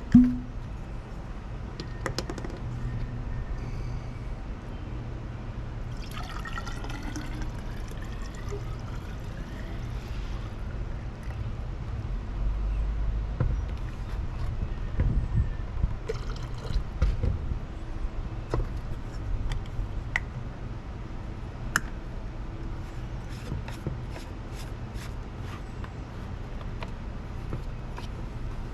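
Water being poured into the Sun Kettle solar water heater, its tone rising as the vessel fills. Handling knocks and a low rumble run alongside, with a sharp knock at the start.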